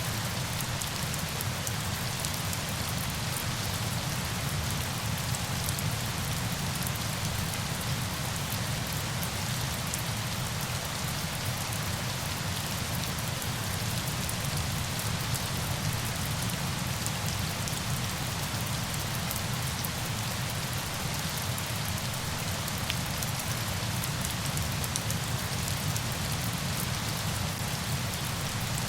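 Steady, unbroken hiss of falling water, with a low rumble underneath and a faint patter of fine drops.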